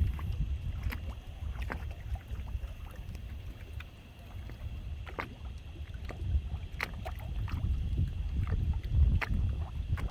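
Strong storm wind buffeting the microphone in gusts, easing about four seconds in and building again after six, with scattered sharp little ticks and taps over it.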